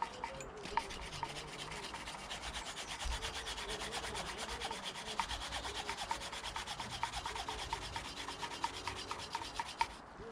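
Ferguson TED engine valve being hand-lapped into its seat with a valve grinding tool and paste: a rapid, even, gritty back-and-forth rubbing that stops near the end.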